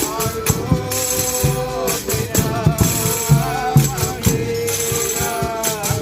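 Folia de Reis folk music: tambourine jingles and drum strokes keeping a steady beat under a sung melody line.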